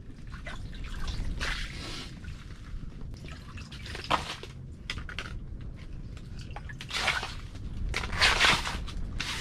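Wind rumbling steadily on the microphone, with irregular wet scuffing and splashing noises, the loudest a little after eight seconds in.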